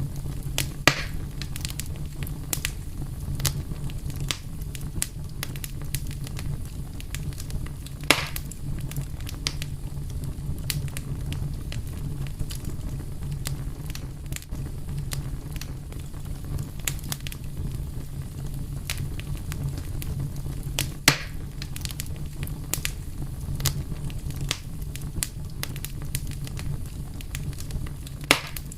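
Fire crackling steadily: many small snaps over a low, even rumble, with a few louder pops about 1, 8, 21 and 28 seconds in.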